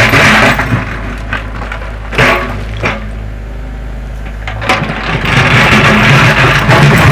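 Wood cracking and splintering over a steady low hum. The crackling is heavy at the start, thins out through the middle and builds again after about five seconds.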